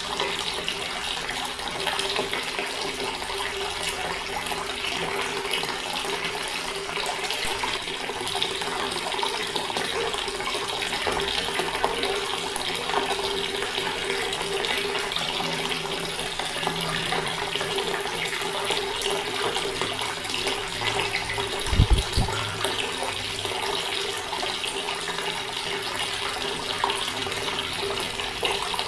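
Water running steadily from a tap. A brief low thump about three quarters of the way through.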